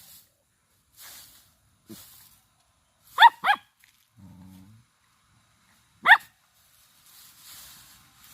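German Shepherd dog giving short, high-pitched barks: two quick ones about three seconds in and a single one about six seconds in, each dropping in pitch.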